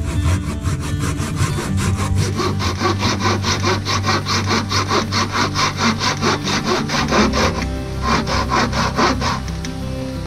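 Hand saw cutting wood in quick, even back-and-forth strokes, about four a second, with a short break about eight seconds in. Background music runs underneath.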